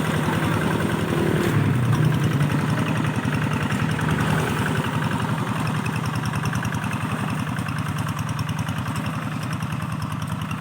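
Rice-field tractor engine running steadily with even firing pulses. Its pitch rises briefly about one to two seconds in.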